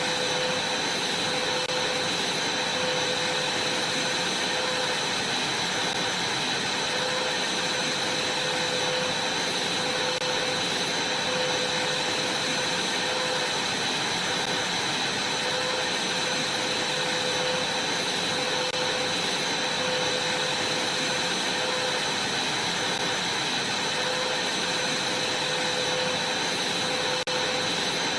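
Vacuum cleaner running steadily: a rush of air with a high, constant whine and a lower hum that wavers every second or two.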